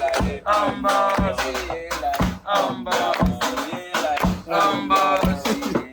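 Voices singing to a steady thump about once a second, the beat of roasted coffee beans being pounded with a wooden pestle in a mortar.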